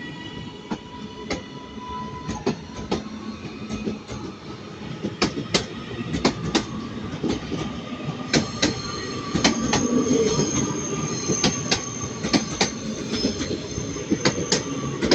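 A train moving slowly over station track and points: irregular clicks and knocks as the wheels cross rail joints and crossings over a low rumble. Wheel flange squeal sets in as thin high-pitched tones, strongest in the second half.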